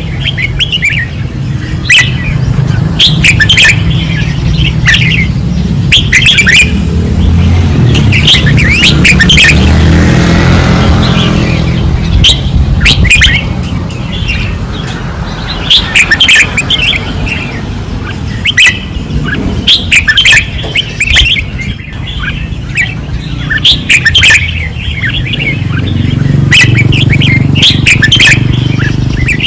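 Red-whiskered bulbuls singing hard: short, bright whistled phrases repeated again and again with short gaps between them. A low rumble runs underneath and swells about ten seconds in.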